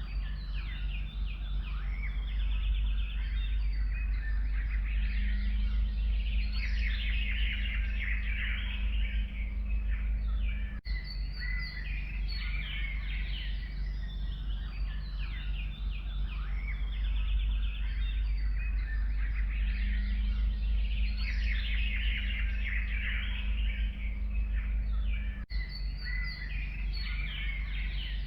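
A forest chorus of many songbirds chirping and trilling at once, dense and continuous, over a steady low rumble. The sound drops out very briefly twice.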